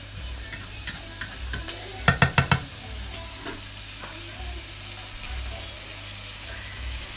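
Beef, bell peppers and onion sizzling steadily in a frying pan as they are stirred with a spatula, frying until the liquid cooks off. About two seconds in, a quick run of about five sharp knocks of the spatula against the pan.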